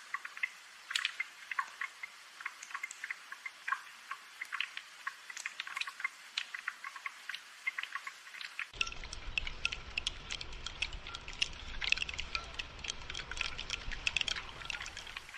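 Rain dripping and pattering: many irregular drops ticking over a soft hiss. About nine seconds in the sound changes abruptly and a low rumble joins underneath.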